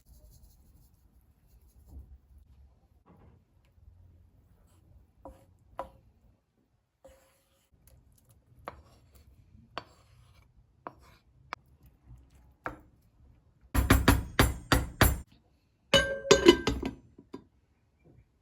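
Kitchen handling sounds: scattered light taps and clinks of dishes and utensils, then two bursts of rapid clattering a little over halfway through.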